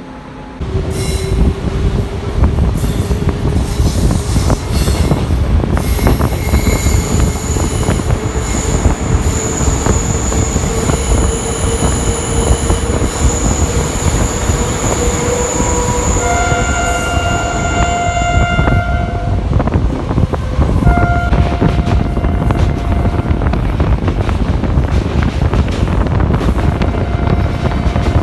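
Passenger train running along a winding line, a steady loud rumble and rattle of wheels on track that jumps up under a second in. Long, steady, high-pitched wheel squeal runs through the middle. Later come two horn blasts, the first about three seconds long and the second about two.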